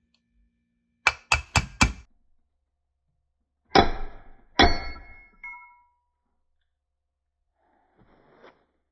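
Metal knocks and clangs: four quick taps in a row, then two heavier strikes that ring on briefly, then a faint scrape near the end.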